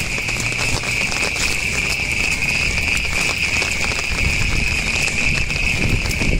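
Steady rain falling, with patters and drips and a continuous high-pitched drone running through it.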